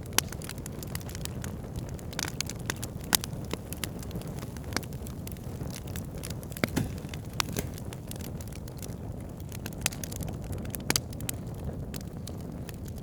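Wood campfire burning: a steady low rumble of flames with frequent sharp, irregular crackles and pops.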